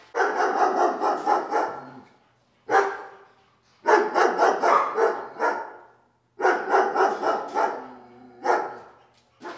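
A dog barking over and over in rapid runs, about four barks a second, in three bursts of about two seconds each with short pauses between.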